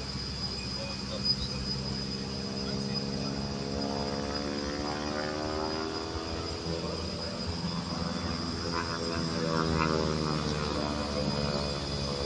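Boeing Stearman biplane's radial engine and propeller droning as it flies past, its pitch bending as it passes. A steady high-pitched whine runs underneath.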